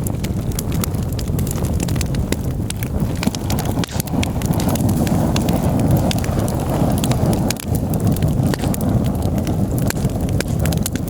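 Campfire burning, crackling with frequent sharp, irregular pops over a steady low rumble.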